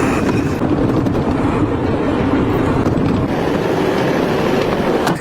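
4x4 expedition truck driving, a loud, steady rumble of engine and rolling noise that cuts off abruptly just after five seconds.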